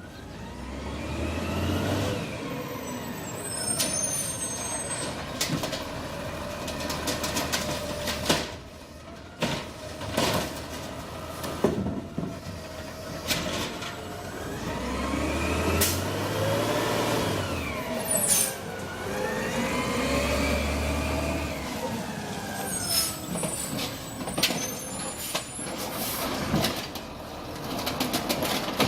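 Garbage truck engine revving up and falling back three times, with many sharp knocks and clanks in between.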